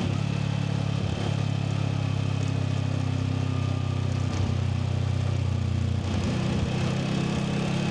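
Voge 525 DSX's parallel-twin engine running through its stock exhaust under way, holding fairly steady revs at an even level.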